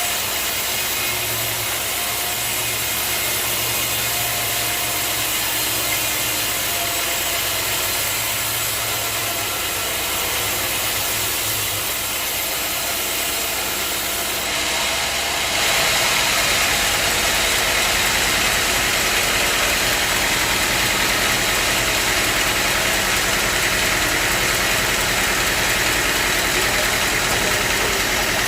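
Sawmill machinery running steadily, with the noise stepping up and getting louder about halfway through.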